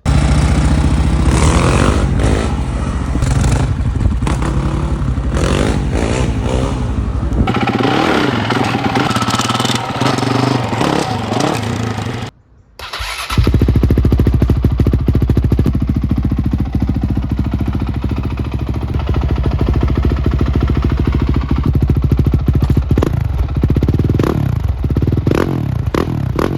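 Honda CRF450X single-cylinder four-stroke engine idling and being blipped in short revs, heard in two spliced recordings with a sudden break about twelve seconds in. One recording is on the stock exhaust, the other on a full FMF MegaBomb header and Factory 4.1 exhaust system.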